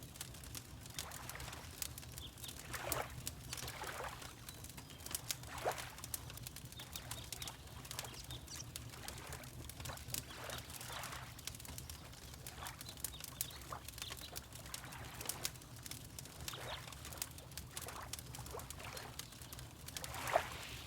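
Water lapping in short soft splashes every few seconds, the loudest near the end, with a fireplace crackling in sharp little clicks throughout over a low steady rumble.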